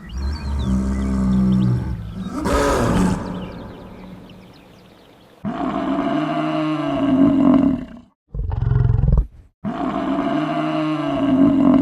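Roars and growls of large wild animals, several separate recordings cut one after another with sudden starts and stops. From about halfway, the same arching, rising-then-falling call plays twice with a short low growl between.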